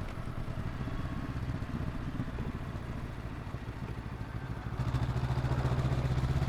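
Honda NX500's 180-degree parallel-twin engine running on the move at light throttle; about five seconds in the throttle opens and the exhaust note gets louder as the bike starts to accelerate.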